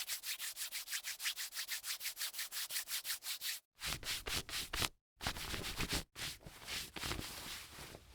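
Rapid back-and-forth rubbing strokes, several a second, for about the first three and a half seconds, then three more stretches of rubbing after short breaks.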